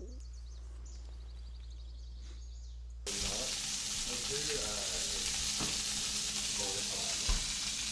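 Faint bird chirps for about three seconds, then an abrupt change to breakfast food sizzling in a frying pan, a steady hiss, with faint voices in the background.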